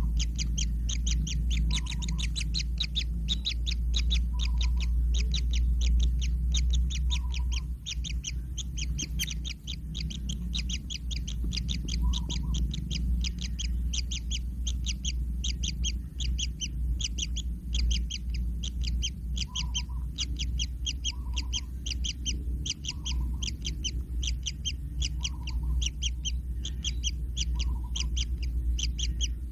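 Kingfisher chicks calling in a rapid, unbroken stream of short, high notes, several a second, over a steady low rumble. A softer, lower note repeats every second or two.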